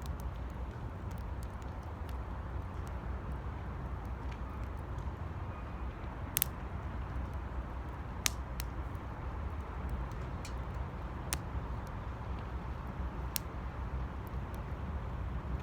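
Wood fire burning in a metal 18-litre square can: a steady low rumble with scattered sharp crackles and pops, a few standing out clearly.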